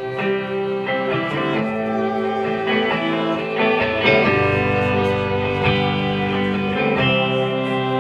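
Live band playing an instrumental passage between sung lines, led by guitar chords ringing out.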